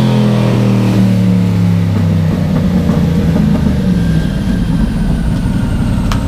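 Twin-turbo 427 LSX V8 of a first-generation Camaro race car coasting down on a chassis dyno after a full-power pull. The engine note falls steadily for about two seconds, then settles into an uneven low rumble.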